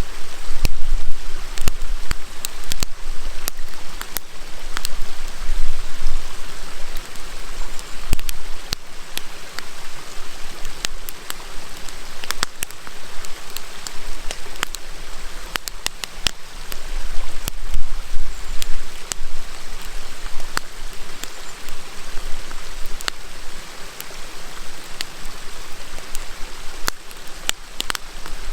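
Wood campfire crackling with frequent, irregular sharp pops over the steady rush of a flowing river.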